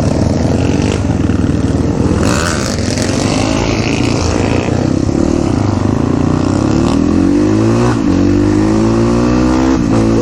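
A Crossfire RM250 dirt bike's 250 cc engine pulls under way. Its pitch climbs steadily as it accelerates, then drops at an upshift about eight seconds in and again at the very end. A brief rush of noise comes about two seconds in.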